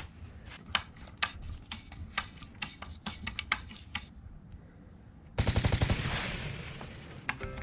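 Scattered sharp clicks and taps, then a short loud burst of rapid hammering strokes about five seconds in, trailing off into a fading hiss.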